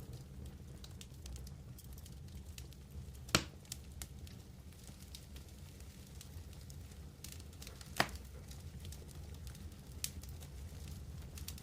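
Wood campfire crackling, with scattered small clicks and two sharper pops, one about three seconds in and one about eight seconds in, over a low steady rumble.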